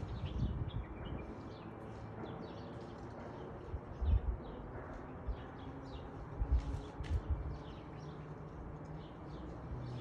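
Small birds chirping in many short, high notes throughout, over a steady outdoor hiss, with a few low thumps about four seconds in and again around six and a half to seven seconds.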